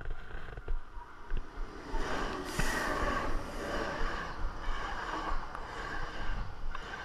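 An electric passenger train passing close by at a level crossing. Its wheels and cars rush past on the rails, the sound rising sharply about two seconds in and staying loud.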